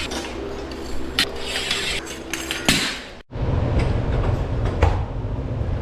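Scattered knocks and clanks of metal garage door hardware being handled and fitted. The sound cuts out briefly about three seconds in, then a steady low rumble continues under more knocks.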